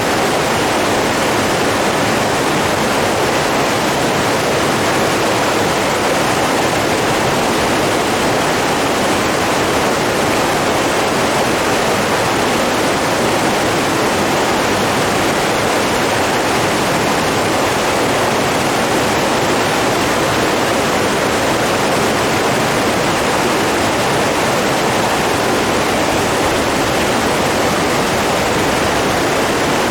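Running water rushing steadily, an even unbroken hiss and roar with no change in level.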